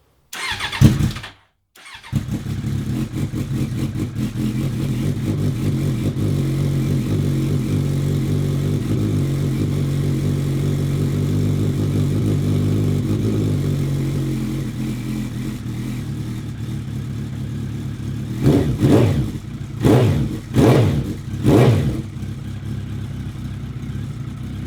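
Suzuki Bandit 1200's freshly rebuilt inline-four engine starting on a little choke: a short burst on the starter, then it catches about two seconds in and runs at a steady fast idle that eases slightly after about fourteen seconds. Near the end the throttle is blipped four times, and the engine cuts off suddenly.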